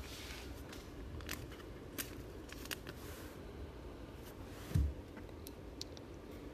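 Football trading cards and foil packs being handled: small clicks, taps and rustles, with one soft thump nearly five seconds in.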